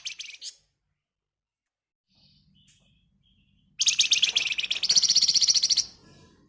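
Flamboyan songbird singing. A brief, very fast high trill ends right at the start, and a loud, very fast rattling trill of about two seconds begins about four seconds in, stepping up in pitch halfway through.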